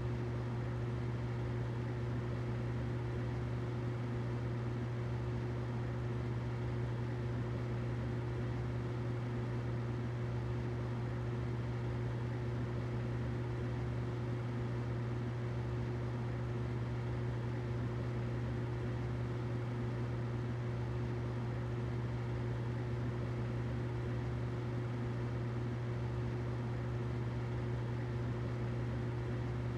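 Humidifier running: a steady low motor hum with a fainter higher tone over an even hiss.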